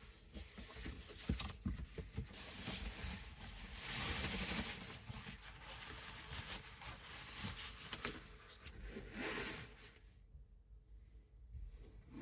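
Rustling and tearing with scattered light clicks, as of packaging and small objects being handled in a small enclosed space. The rustle is loudest about four seconds in and again near nine seconds, and it goes quiet about ten seconds in.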